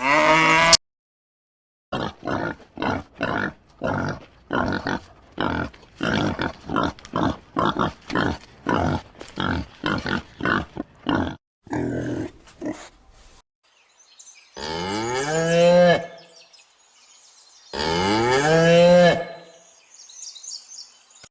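Cattle mooing: a run of short, rapid calls repeating two to three times a second, then two long moos, each lasting about a second and a half.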